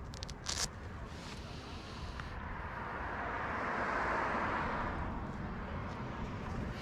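Royal Enfield Interceptor 650's parallel-twin engine running through its stock exhaust while riding, with wind on the microphone. A few short clicks come about half a second in, and a broad rush of noise swells and fades over the middle few seconds.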